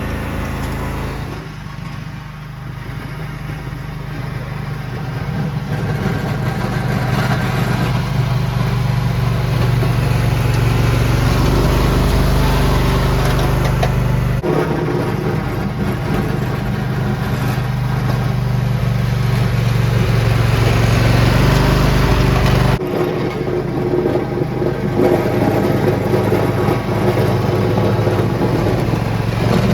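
Lawn tractor engine running steadily, growing louder over the first several seconds, with abrupt shifts in its sound about fourteen and twenty-three seconds in.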